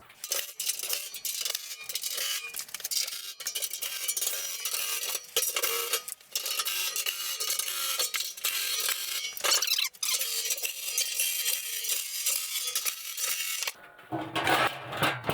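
Rapid metallic clicking and clinking of tools and small 10 mm bolts being tightened on a metal welding cart; it dies away about a second before the end.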